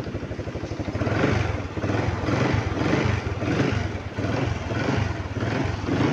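Euro Keeway 125 motorcycle engine running just after an electric start, its sound swelling and easing in a regular pulse about twice a second from about a second in. It runs and keeps running now that the grounded regulator connection behind the no-start fault has been cleaned.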